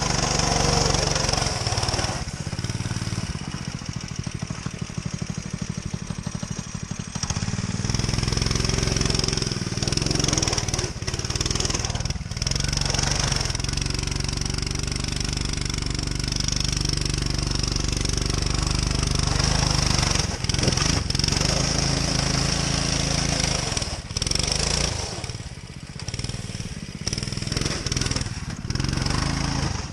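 Motoland RT200 dirt bike engine running while being ridden, revving up and easing off several times with a few brief dips in level.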